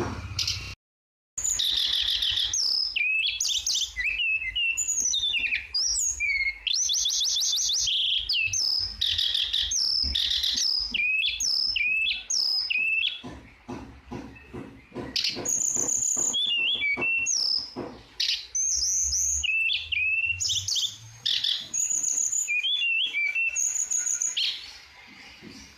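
Tledekan songbird singing: a busy run of short high chirps, whistles and rapid buzzy trills. The sound drops out completely for a moment about a second in.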